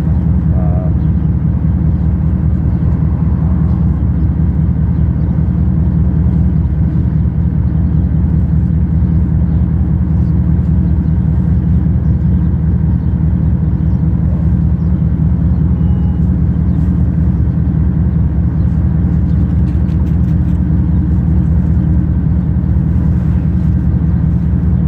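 Steady low rumble of a running engine, even and unchanging in level.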